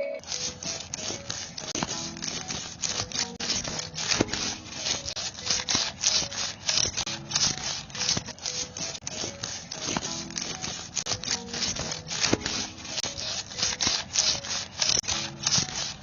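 Rapid, repeated scraping strokes, about three to four a second, of a hand tool rubbing or cutting across a material.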